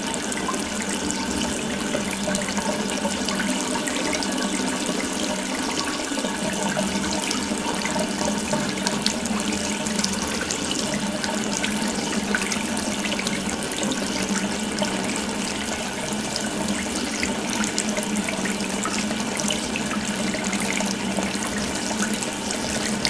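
Water running steadily from an open tap, a continuous splashing stream with small spattering sounds.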